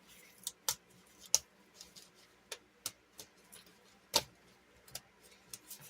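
Irregular light clicks and taps of a sticker sheet being handled, about eight spread out, two of them louder.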